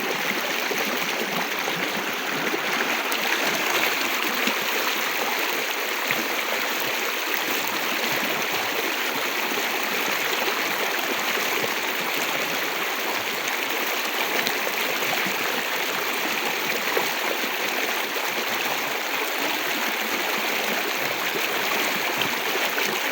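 Shower water running in a steady rush, without a break.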